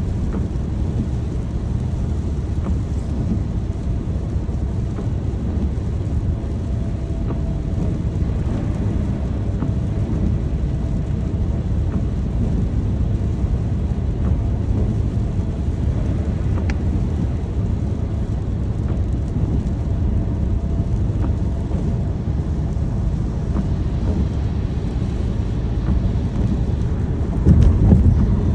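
Thunderstorm ambience: a steady low rumble of rain with a few faint drips, and thunder growing louder near the end.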